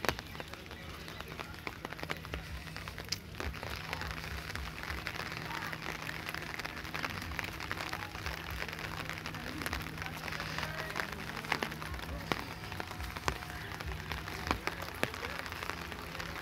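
Steady rain falling, with scattered sharp ticks of drops landing close by and a faint steady hum underneath.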